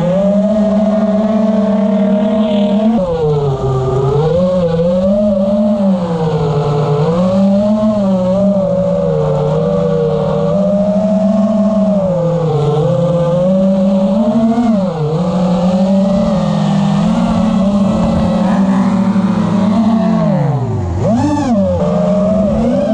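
FPV quadcopter's brushless motors and tri-blade propellers whining, the pitch rising and falling continuously with the throttle. About 21 seconds in, the pitch drops sharply and climbs straight back up, as when the throttle is chopped and punched again.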